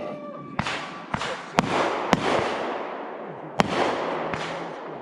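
Fireworks display: about five sharp bangs of aerial shells, each followed by a hissing crackle that fades out.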